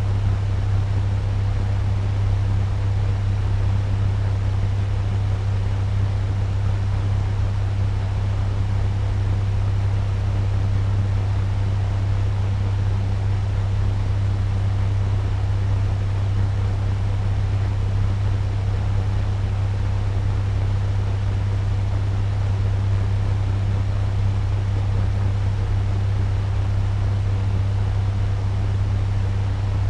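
Turbo fan running steadily at medium speed: an even rush of air over a strong, steady low hum.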